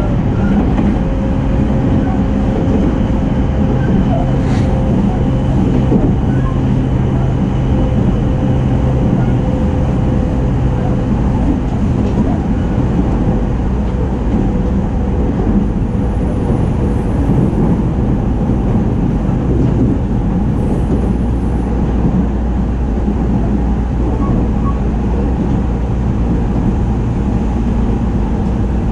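JR East 209 series electric train running, heard from inside motor car MoHa 208-2103: a steady rumble of wheels on rail with a low hum that fades out about ten seconds in.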